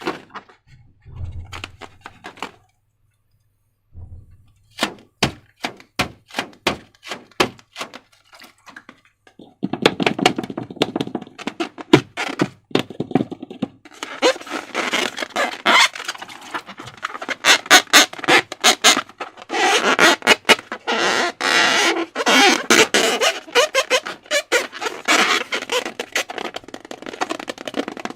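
Slime being handled and squished: a run of sharp sticky clicks a few seconds in, then dense crackling and popping for the rest.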